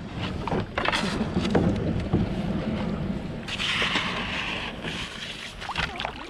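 Knocks and handling noise from a kayak as someone climbs in, with a rushing hiss of water or hull scraping for a second or so around the middle. Wind buffets the microphone underneath.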